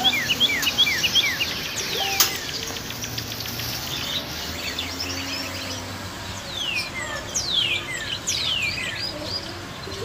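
Several caged birds chirping and calling. A quick run of short falling chirps comes in the first second, then longer downward-sweeping whistles about two seconds in and again through the second half, over a steady background hum. There is one sharp click a little after two seconds.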